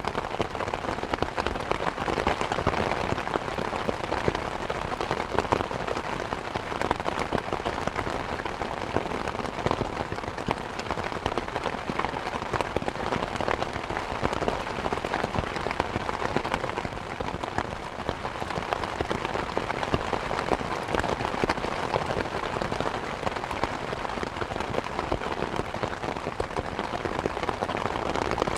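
Heavy thunderstorm rain hitting a car, a dense, steady patter of drops, with a faint steady hum underneath.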